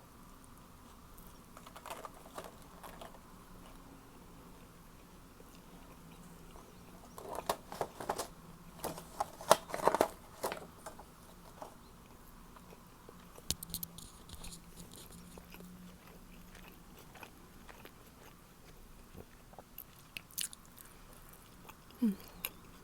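A person biting into and chewing a toasted Subway sandwich, crunchy bites of the crust with wet chewing between them. The bites come thickest about eight to eleven seconds in.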